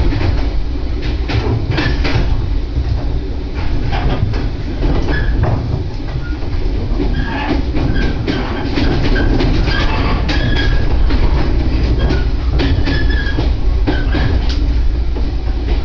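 Passenger train car running on the JR Echigo Line, heard from inside the cabin: a steady low rumble from the running gear with irregular clicks of the wheels over the rails, and short high squeals from the wheels now and then.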